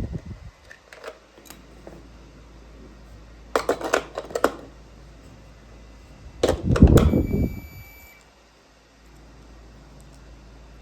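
Plastic clicks and clatter from a children's toy microwave oven being handled, with a cluster of sharp clicks about four seconds in and a louder clatter near seven seconds. A short electronic tone sounds for about a second, starting near seven seconds.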